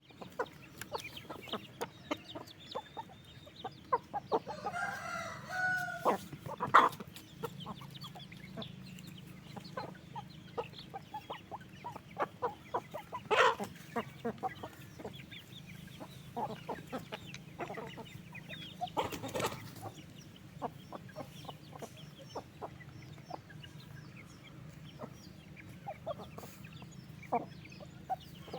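A flock of chickens clucking, with a long rooster-like call about five seconds in. Many short, sharp clicks and taps run through it, with a few louder sharp sounds near the middle.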